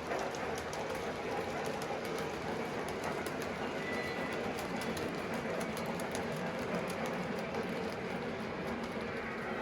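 Model train running on layout track: a steady rumble of motor and wheels, with frequent light clicks of wheels over rail joints.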